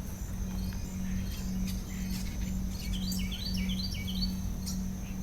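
Bird chirping in quick runs of short, high notes, each note dropping in pitch, over a steady low hum.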